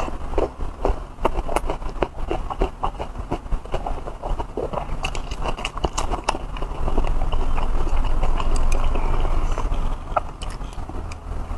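Close-miked chewing and lip-smacking of a person eating braised pork belly and rice: many quick wet mouth clicks in an uneven rhythm, over a low steady hum.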